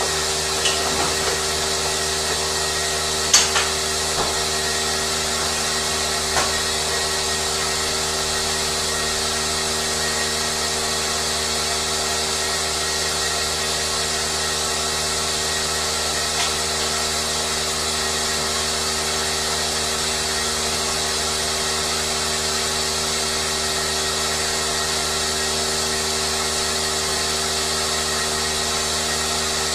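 Steady mechanical hum with several unchanging tones and a high hiss, with a few sharp clicks and knocks in the first several seconds.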